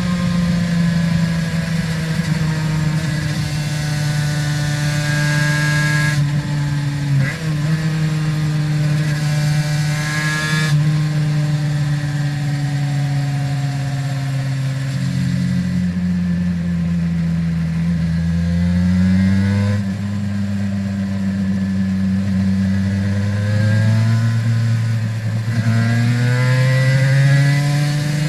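Aprilia RS 250's two-stroke V-twin with Arrow exhausts running under way. Its note holds steady, steps in pitch at gear changes in the first half, drops lower, then rises twice as the bike accelerates toward the end.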